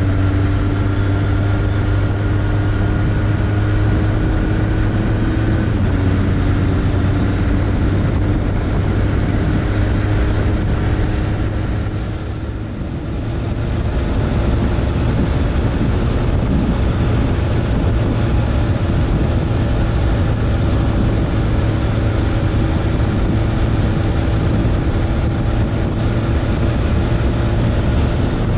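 Suzuki Bandit 1200's inline-four engine running steadily while the bike is ridden. Its note shifts about six seconds in, and the sound dips briefly about twelve seconds in.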